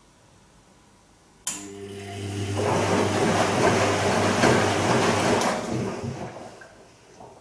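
Bosch Serie 2 VarioPerfect washing machine: a click about a second and a half in, then a motor hum joined by a rushing noise that swells and dies away after about five seconds.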